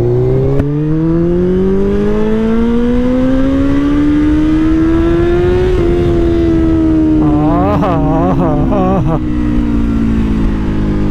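Suzuki Hayabusa inline-four with a full-system Akrapovič 4-into-1 exhaust pulling in one gear, its note rising steadily for about six seconds, then falling as it slows off the throttle. A wavering, warbling tone sounds over it for about two seconds near the middle.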